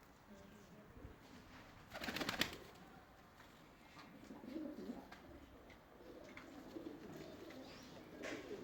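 Bird calls, with a loud, sudden noise lasting about half a second about two seconds in.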